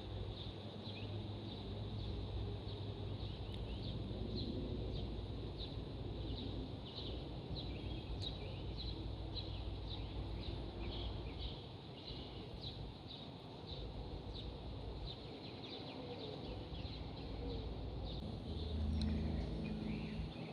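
A bird chirping over and over, about twice a second, short high notes over a low steady rumble. Near the end a lower hum with several steady tones comes in.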